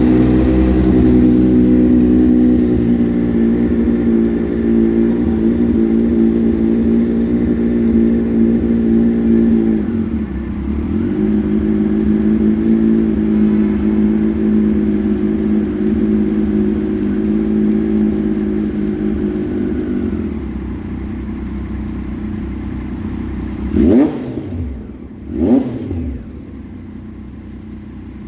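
Triumph Daytona 675 R inline three-cylinder engine through a Racefit shorty exhaust, held at raised revs for about ten seconds, dipping briefly, held again for about ten seconds, then dropping to idle. Near the end it is blipped twice, sharp rises and falls in pitch about a second and a half apart, before settling back to idle.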